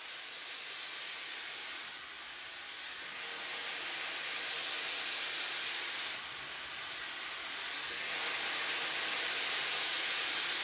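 Tideway hair dryer blowing steadily, a hiss of rushing air whose loudness swells and dips slowly as it dries long hair.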